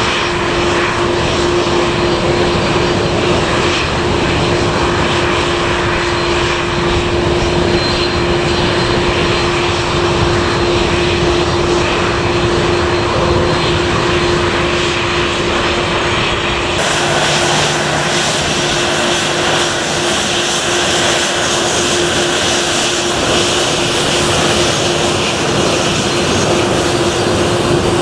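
Aircraft engines running loud and steady close by, with a constant hum under the noise; the sound grows brighter and hissier about 17 seconds in.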